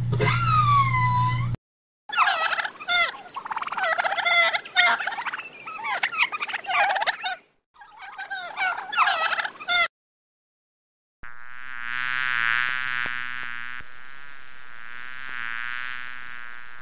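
A killer whale's gliding whistle calls, cut off after about a second and a half; then turkeys gobbling in rapid bursts for about eight seconds; then, after a short gap, a bee buzzing steadily to the end.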